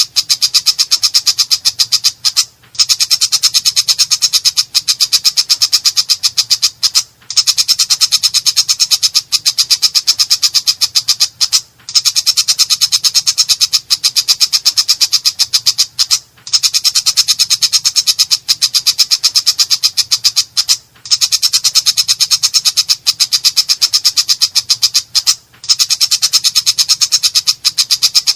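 Long-tailed shrike (cendet) giving loud, harsh, rapid chattering calls, a fast run of rasping notes. The calls come in phrases of about four seconds, each cut by a brief pause.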